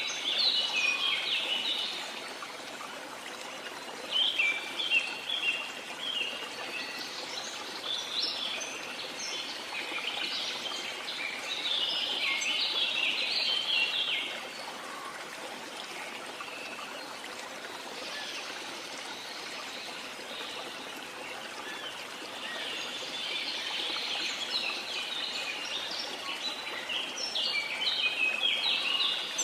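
Waterfall rushing steadily while birds chirp in bouts over it, with a pause in the birdsong of about ten seconds midway.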